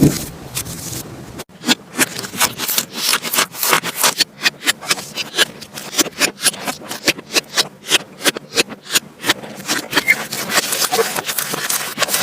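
Slime being squeezed and worked by hand: a quick, uneven run of sticky pops and crackles, several a second, starting after a sudden break about a second and a half in.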